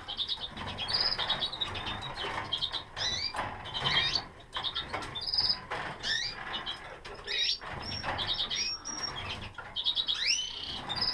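Canaries chirping and calling: many short high chirps, quick trilled notes and rising whistles, over the soft rustle of a chick being handled.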